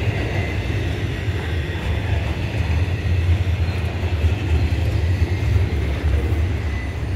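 Double-stack intermodal well cars rolling past on the rails: a steady low rumble of steel wheels on track, with a faint high steady tone above it. The rumble eases a little near the end as the cars pass.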